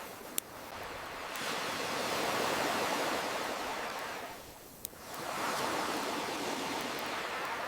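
Ocean waves washing in and drawing back, one surge fading out about halfway and the next building after it. Two sharp pops from a crackling wood campfire, one near the start and one as the first wave dies away.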